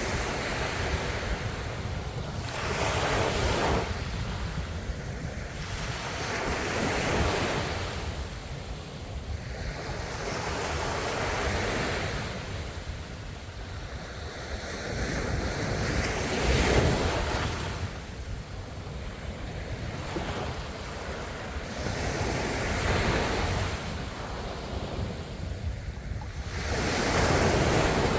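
Ocean waves breaking on the shore, each surge building and washing away again about every four to five seconds, over a steady low rumble.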